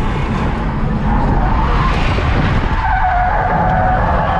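Ford AU Falcon drifting: the engine runs hard under the tyres' skid noise, and a sustained tyre squeal sets in about three seconds in.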